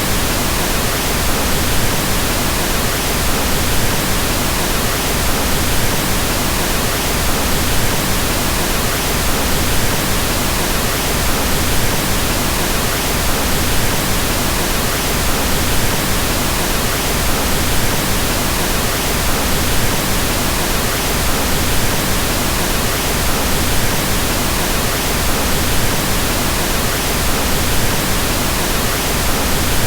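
Pink noise: a steady, even hiss across the whole range, with its low end fuller than white noise, unchanging throughout.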